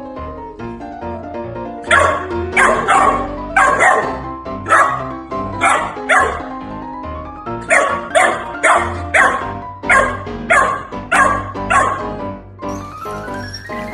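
Background music, with a dog, likely a puppy, barking repeatedly over it, about one to two sharp barks a second, that stop near the end.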